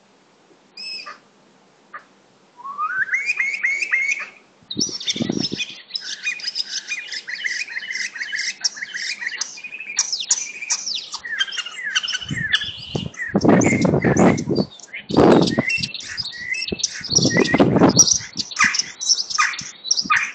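Several birds singing and chirping in spring, a busy chorus of rapid high chirps and trills that builds up a couple of seconds in. A few loud low rushes of noise break in around the middle.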